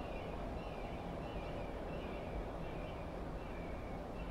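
A bird calling over and over, short falling notes repeated about one and a half times a second, over a steady low background rumble.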